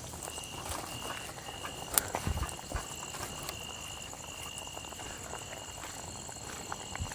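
Night forest chorus of insects and frogs: a steady high shrill with a short call repeating about twice a second. A sharp click about two seconds in, followed by a few soft knocks.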